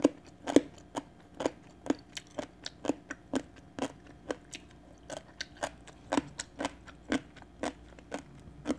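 Close-up crunching of danmuji, yellow pickled radish, being chewed: a steady run of crisp crunches, about two to three a second.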